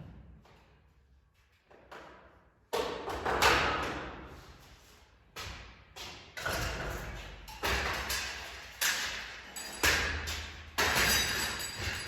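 A series of sudden thumps and knocks, roughly one a second after a quiet start, each ringing out before the next.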